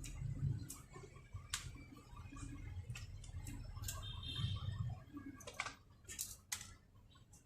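Irregular sharp clicks and taps of small plastic and metal parts being handled and fitted while working on a gel blaster's internals, over a low handling rumble that fades about five seconds in.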